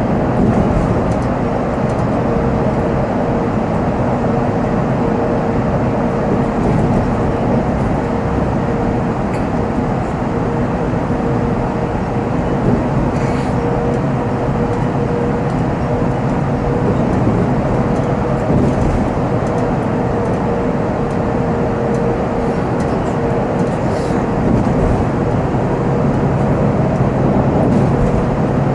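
Volvo B7R tour coach's diesel engine and drivetrain heard from the driver's seat while driving, a steady drone with a constant whine over the engine hum and road noise.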